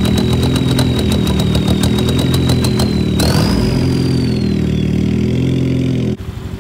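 Volkswagen TDI turbodiesel engine running, with a steady high whistle and a fast, even ticking. About three seconds in the ticking stops and the whistle jumps higher, then slowly falls away. The sound cuts off suddenly near the end.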